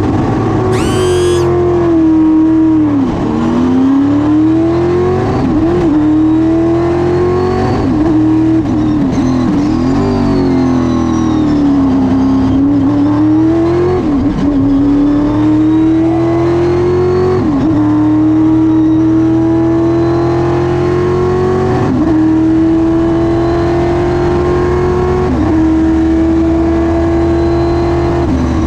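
Stock car racing engine at full effort, heard from inside the car on a fast lap: the revs climb steadily and drop sharply at each gear change, with dips and rises where it brakes and accelerates out of corners.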